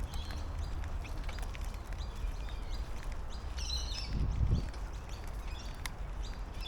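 Birds chirping and calling around a park pond: many short high chirps, with a busier burst of calls about three and a half seconds in. Under them is a steady low rumble, and a brief low thump comes just after four seconds.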